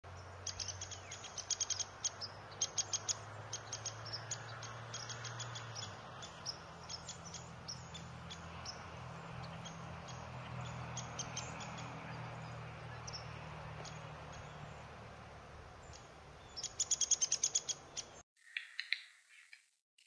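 Birds giving short, high-pitched ticks and chips in quick bursts over a low steady hum, with the loudest burst near the end. The sound then cuts to a few separate short chirps.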